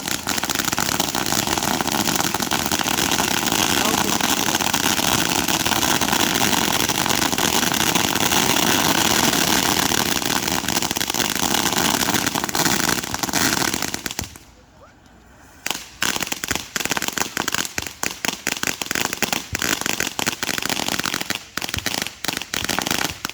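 Fireworks going off in a dense, continuous barrage of bangs and crackling. The barrage breaks off for about two seconds just past the middle, then comes back as a quick run of separate pops and cracks.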